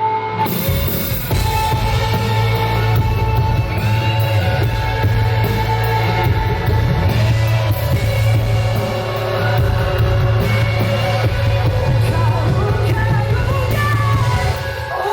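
A live pop-rock band plays steadily with drums, bass and guitar under a male lead vocal.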